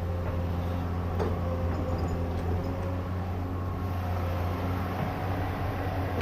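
An excavator's diesel engine running steadily, a constant low hum with a few faint ticks and a sharp click right at the end.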